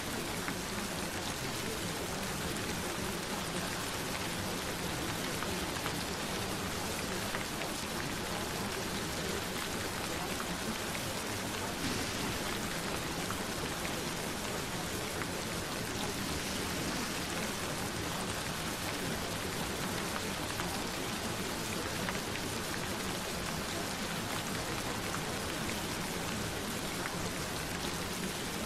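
Gentle rain falling steadily: an even, unbroken hiss of rain with no change in level.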